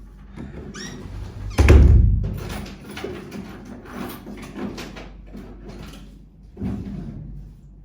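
A heavy thump about two seconds in, with lighter knocks and rustling around it, and a smaller thump near the end.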